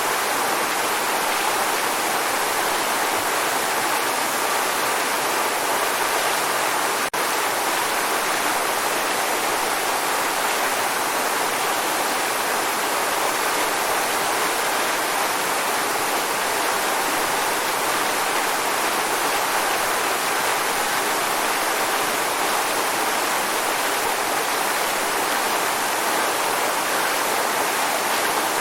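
Waterfall rushing in a steady, unbroken hiss of falling water, with one brief dip about seven seconds in.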